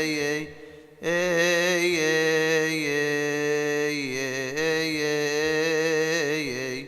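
Solo male deacon chanting a Coptic Orthodox hymn in a long, melismatic line, the voice wavering through ornaments on held notes. He breaks off for a breath about half a second in, then picks the line up again.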